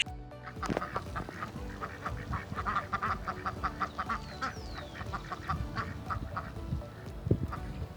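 A flock of birds calling: many short calls in a quick, uneven run, overlapping one another, with a thin falling whistle about halfway through.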